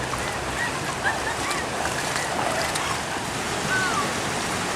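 Floodwater from an overflowing creek rushing steadily, with faint distant voices now and then.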